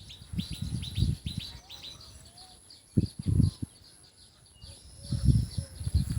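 A bird calling in a quick run of short, downward-sweeping chirps, about five a second, over the first two seconds. Low rumbling bursts come about three seconds in and again near the end, louder than the bird, over a faint steady high tone.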